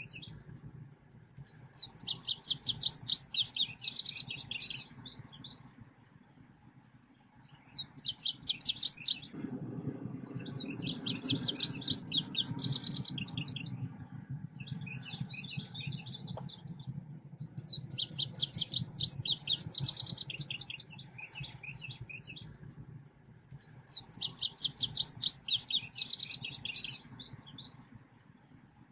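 Selendang biru songbird singing in repeated phrases of rapid, high chirping notes, each phrase lasting a couple of seconds with short pauses between. This is the bird's excited ('gacor') song, used as a lure call. A faint low hum runs underneath.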